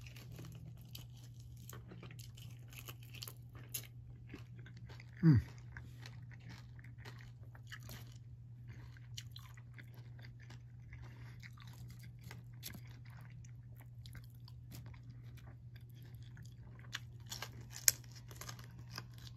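Close-up chewing and crunching of fried chicken feet: irregular crisp crackles and bites, over a steady low hum. About five seconds in, a short, louder sound slides down in pitch.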